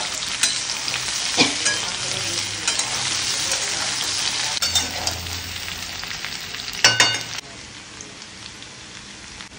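Potato and eggplant pieces sizzling in hot mustard oil in a metal kadhai, stirred with a steel spatula that clinks and scrapes against the pan several times. The sizzle falls quieter about seven seconds in.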